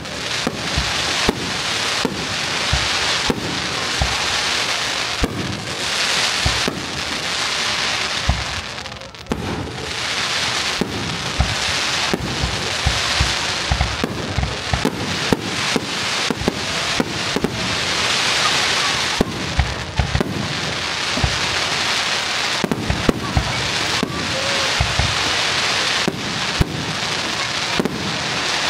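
Fireworks display: aerial shells bursting in quick, irregular succession, many sharp bangs over a continuous crackling hiss of burning stars.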